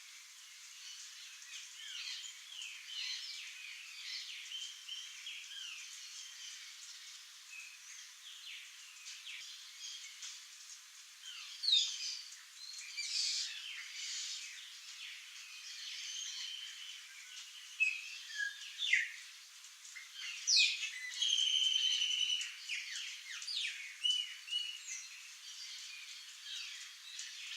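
A chorus of wild birds calling: many short high chirps and trills overlapping, with louder flurries about twelve seconds in and again about twenty seconds in, where one bird holds a steady whistled note for a couple of seconds.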